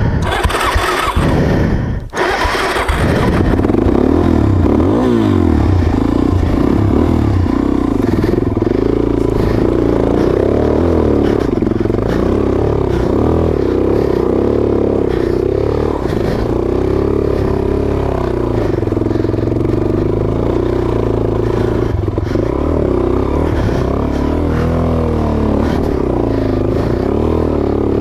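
Suzuki DRZ400S single-cylinder four-stroke engine pulling up a steep trail climb, its revs rising and falling continuously as the throttle works. For the first two seconds a rough, scratchy noise covers it.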